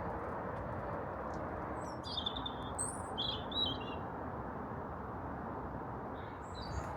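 Small birds chirping: a cluster of quick chirps about two seconds in and a few more near the end, over a steady low rushing noise.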